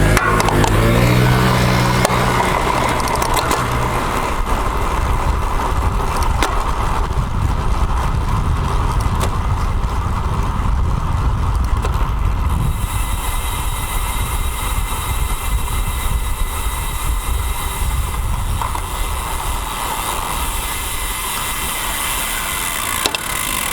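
Steady wind and road noise picked up by a bicycle-mounted action camera while riding in traffic, with a nearby motor vehicle's engine heard in the first few seconds.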